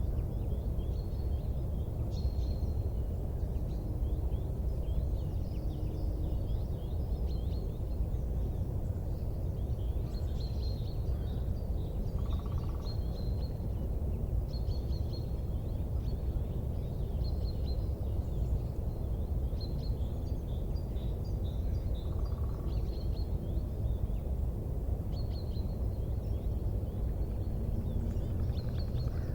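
Outdoor ambience: a steady low rumble with small birds chirping on and off throughout.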